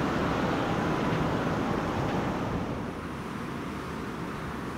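Electric commuter train rumbling along the platform, a steady noise that drops off about two and a half seconds in as it draws away.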